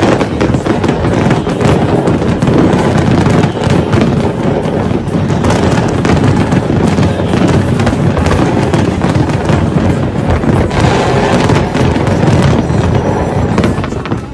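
A dense, continuous barrage of fireworks: rapid pops and bangs running together without a break.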